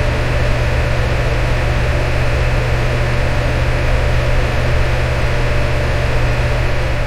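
Electric fan running steadily: an even whooshing of moving air over a strong low motor hum.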